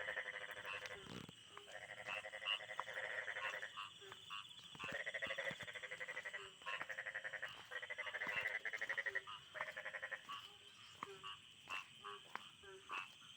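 Frogs calling: rapid pulsed trills in bursts of one to two seconds, repeated over and over, with short lower notes in between.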